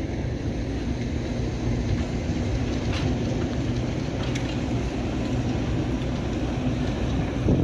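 A train running with a steady low rumble, with a couple of faint clicks about three and four seconds in.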